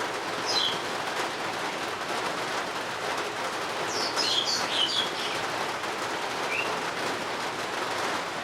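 Steady rain hiss with a songbird chirping over it: one short falling chirp about half a second in, a quick run of several falling chirps around four to five seconds in, and a single lower short note a little later.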